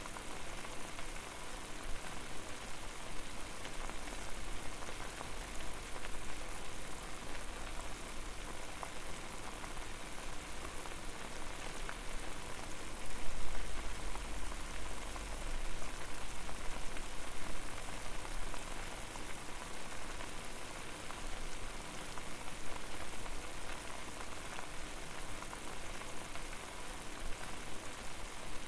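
Water boiling on a fire: a steady, dense bubbling and popping with a low rumble underneath, a little louder about 13 seconds in.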